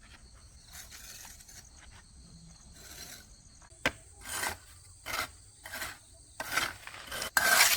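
A series of short, irregular scraping or rubbing strokes, starting about halfway through and growing louder toward the end.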